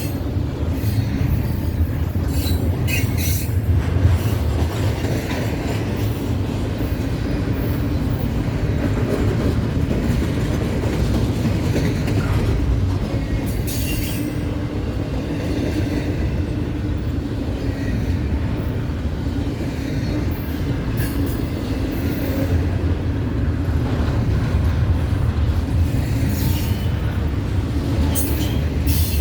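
CSX intermodal freight train rolling past: a steady rumble of wheels on rail, with scattered short, sharp high-pitched clicks and squeals from the wheels.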